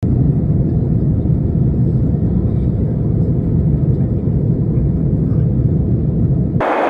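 Wind buffeting the microphone: a loud, steady low rumble that switches abruptly near the end to a higher, hissing rush.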